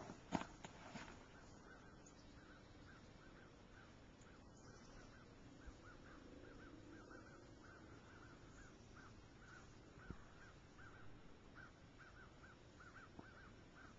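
Faint bird calls: a run of short, high chirping notes repeating several times a second, with a few sharp knocks in the first second.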